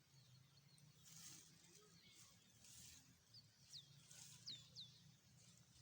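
Faint bird calls: several quick, downward-sweeping whistles, mostly in the second half, over a low steady hum.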